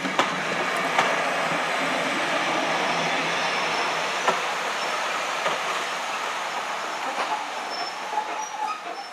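Heritage railway passenger coaches rolling past close by: a steady rumble of wheels on the track, with occasional sharp clicks. The sound eases off slightly toward the end.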